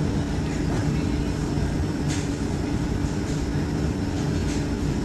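Steady whirring hum of an electric fan, with a few faint light clicks.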